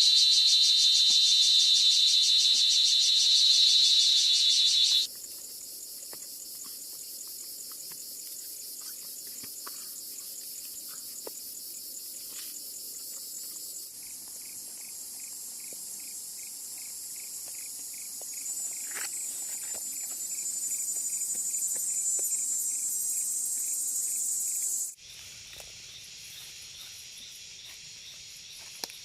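Insects calling, crickets among them. A loud, fast-pulsing high buzz stops abruptly about five seconds in. After it comes a thinner, very high chorus, joined from about the middle by a rapid, regular chirping. That chorus grows louder, then cuts off near the end to quieter background.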